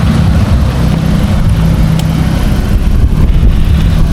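Vehicle running: a steady low engine rumble with road noise.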